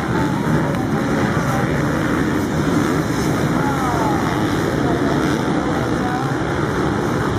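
Motocross bikes racing around the track, their engines running hard and steadily, with a couple of rising and falling revs about three to four seconds in.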